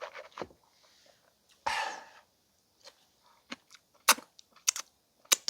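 A person eating a bowl of beef-head gukbap with kimchi: a series of sharp, crisp clicks and crunches, with a brief noisy rush about two seconds in.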